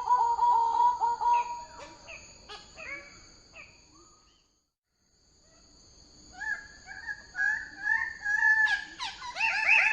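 Bird-of-paradise calling: series of loud, rapidly pulsed nasal notes with steady high tones behind them. The sound drops out to complete silence for about a second midway, then the calls resume and grow louder toward the end.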